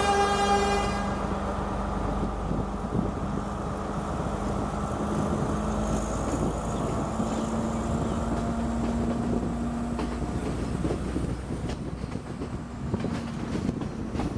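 Diesel passenger train's horn sounding, cutting off about a second in. The train then runs on with a steady rumble and a few sharp clicks of the wheels near the end.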